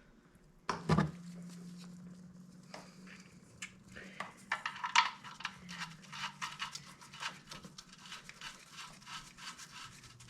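Metal hand tools being handled: a sharp knock, then a run of irregular clicks and clinks that grow busier toward the end, over a faint steady hum.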